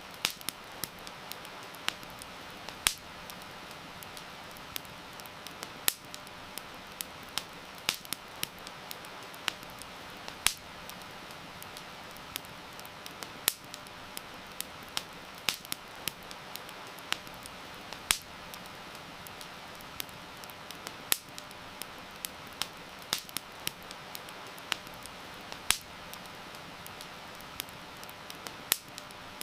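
Wood campfire crackling, with irregular sharp pops several times a second, over a steady hiss of heavy rain.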